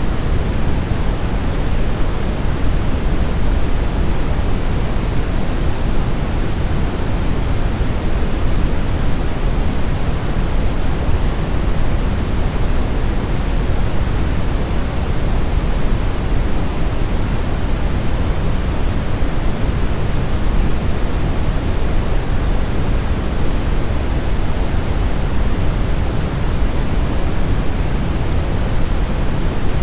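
Steady synthetic brown noise: an even, unbroken rush, deepest in the bass and thinning out toward the highs.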